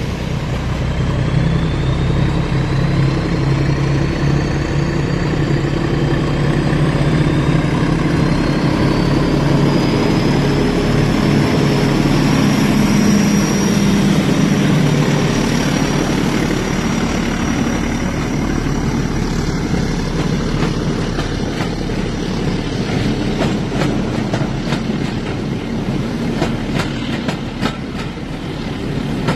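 Hornby model diesel train running on the track: a steady low hum with a high whine that rises over the first dozen seconds, then a quick run of clicks as the wheels pass over rail joints in the last few seconds.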